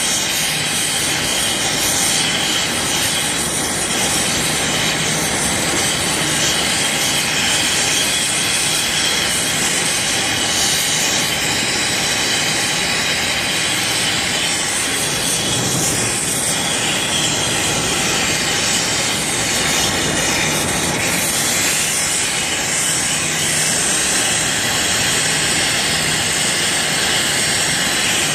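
Steady, loud hiss of rushing gas, unbroken throughout.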